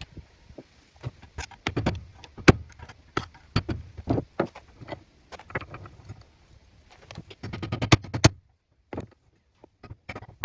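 Irregular metal clinks and knocks as an old ball bearing is worked off a wood lathe's shaft with the help of a bench vise. The loudest knock comes about two and a half seconds in, with a quick run of clinks near the end before a short pause.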